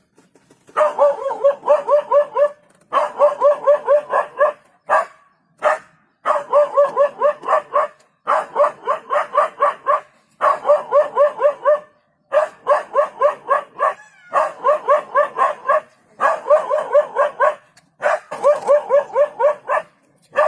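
A dog barking in rapid volleys of quick, high-pitched yaps, about six a second. Each volley lasts one to two seconds, with short pauses between them.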